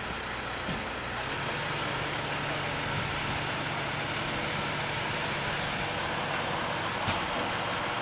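Crane engine running steadily during a lift, with a low hum that strengthens about a second in over a constant outdoor noise; one brief click near the end.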